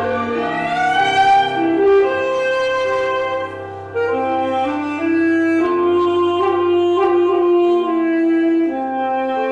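Saxophone playing a melody of held notes over an accompaniment, with a rising slide into the line near the start.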